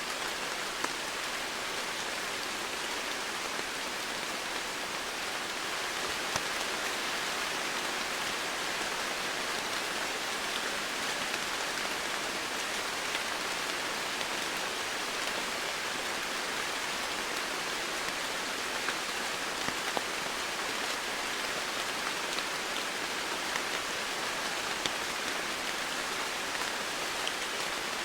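Steady rainfall, an even hiss with scattered louder drops ticking on a surface.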